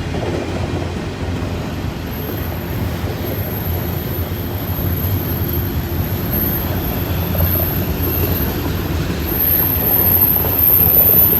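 Freight train cars rolling past with a steady low rumble. A thin, high-pitched squeal joins about a second and a half in and grows louder toward the end, while the rumble also gets slightly louder.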